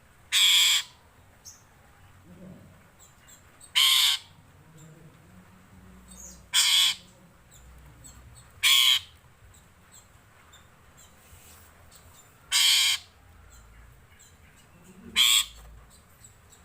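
Asian pied starling (jalak suren) giving six short, harsh calls, one every two to four seconds.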